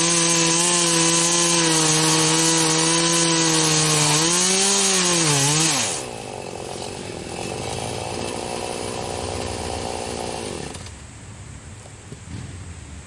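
Poulan 4620 two-stroke chainsaw running at high speed in a cut through a stump. About six seconds in it drops sharply to idle. It idles for several seconds, then shuts off.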